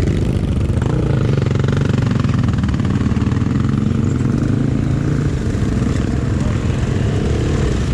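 Honda XRE300's single-cylinder engine running steadily as the motorcycle is ridden, its pitch wavering briefly near the end.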